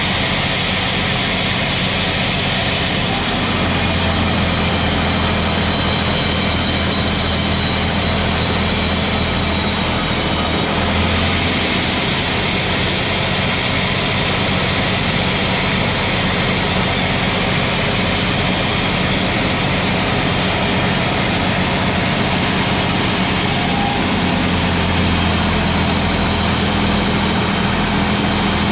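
Engine-driven sawmill cutting a pine log: a heavy engine running steadily under a constant noisy din, its low hum shifting in pitch a few times as the load changes.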